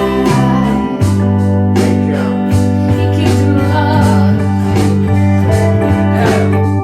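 A song played by a band: guitars over sustained chords with a steady beat.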